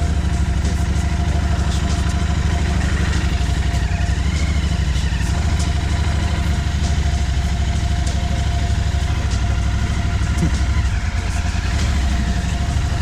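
Motorcycle engine idling steadily, a fast, even low putter.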